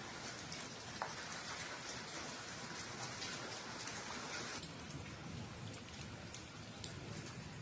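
Steady rain falling, with separate drops ticking close by; the hiss thins a little about four and a half seconds in.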